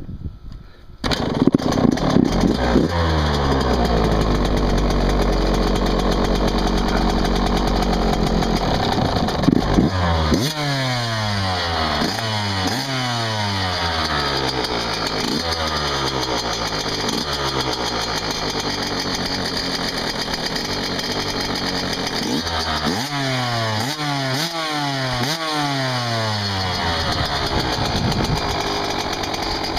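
1999 Yamaha YZ125's two-stroke single-cylinder engine catching about a second in on choke and running, then revved up and down in repeated throttle blips about once a second. Still cold, it won't settle to a steady idle.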